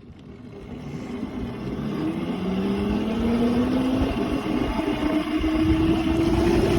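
Tyres hissing on wet pavement as a small ridden vehicle speeds up into a puddle, the water sizzle growing louder over the first two seconds. Under it a motor whine rises steadily in pitch as it gains speed.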